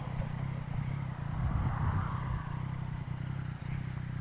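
Yamaha MT-09's inline-three engine, through an Akrapovic full exhaust, running steadily at low revs, with a slight swell about a second and a half in.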